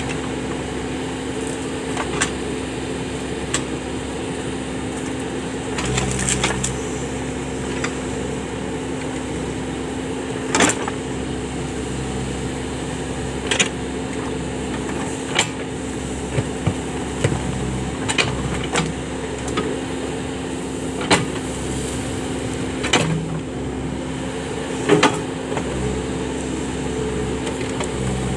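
Case 580 backhoe loader's engine running steadily, with scattered sharp clanks from the machine at work.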